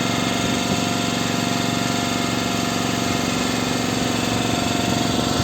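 A boat engine running steadily at idle, with an even mechanical hum.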